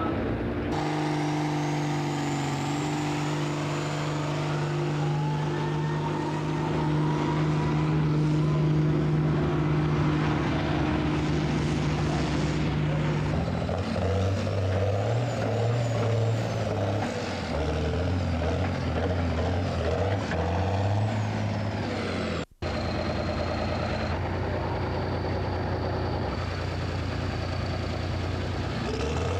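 Heavy pulling-tractor engine running at high, steady revs for about thirteen seconds, then its revs rising and falling. The sound drops out for a moment about 22 seconds in.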